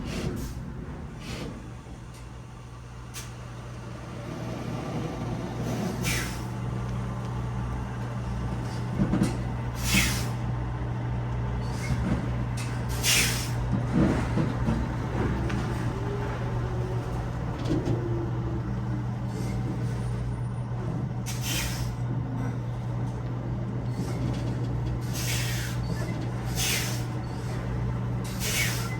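Semi-truck diesel engine idling steadily, with about ten short, sharp hisses of released air at irregular intervals.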